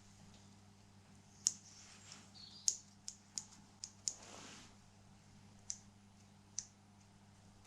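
Sharp, irregular clicks, about eight of them spread over several seconds, from handling the motorcycle's handlebar pass-light switch unit, whose contacts are not making connection. Beneath them is a faint steady hum.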